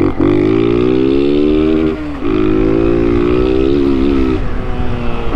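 Honda 160 cc motorcycle's single-cylinder engine heard on board while riding, its pitch climbing slowly under throttle, dipping briefly about two seconds in, then pulling on again.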